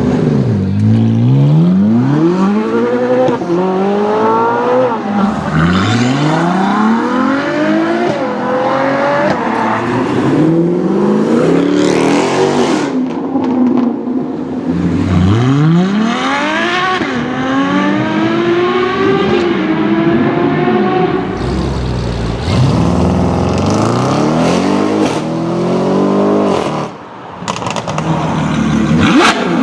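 Supercar engine accelerating hard through the gears several times, its pitch climbing and then dropping back at each upshift. A lower rumble comes about three quarters of the way through, and there is a sharp crack near the end.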